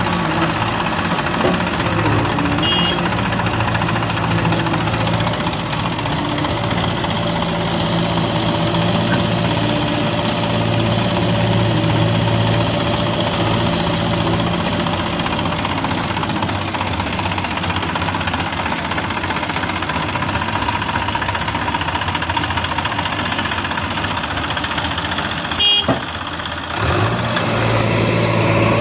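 Heavy diesel engine of a farm tractor or backhoe loader running steadily. About three seconds before the end it cuts off with a click and a short dip, then comes back.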